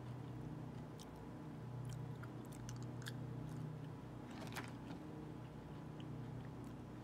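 A person chewing peanut butter M&M's, with scattered small crunches and mouth clicks as the candy shells break. A steady low hum runs underneath.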